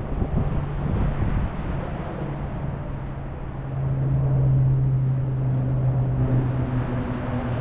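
Propeller airplane droning overhead, a steady low hum whose pitch drops a little about two thirds of the way through as it passes.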